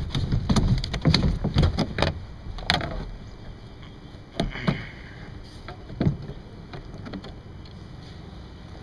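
Quick knocks and clatter on a kayak while a freshly landed largemouth bass is handled aboard, busiest in the first three seconds, then a couple of single knocks with little else.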